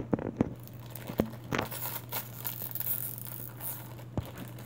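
Plastic blind-bag wrapper of a Thomas mini train being torn open and crinkled by hand, in short, irregular crackles, over a steady low hum.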